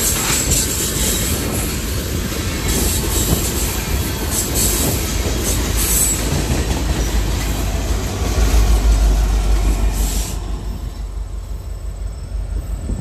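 Freight train of tank cars rolling by: a steady rumble and rattle of wheels on the rails with a high wheel squeal. The high squeal and rattle drop away suddenly about ten seconds in, leaving a lower rumble.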